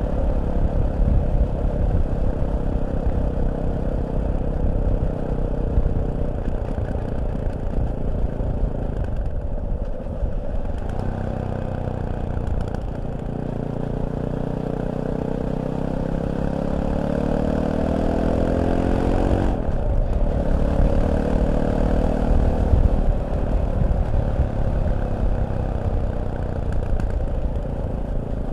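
Fantic Caballero 500's single-cylinder four-stroke engine running on the road, heard raw with low road and wind rumble. About halfway through the revs climb steadily as the bike accelerates. About two-thirds of the way in they drop abruptly at a gear change, then climb again.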